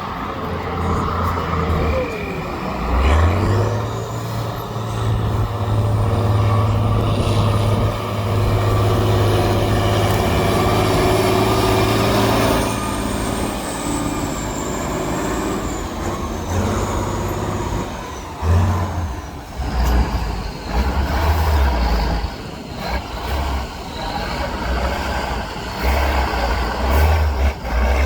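Heavy off-road trial truck's diesel engine running hard, a deep steady rumble with revs rising and falling repeatedly in the second half.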